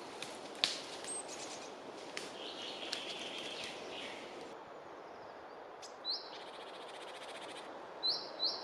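Small songbirds chirping and trilling over a steady background hiss: a buzzy trill a few seconds in, a fast trill later, and several short sharp calls near the end.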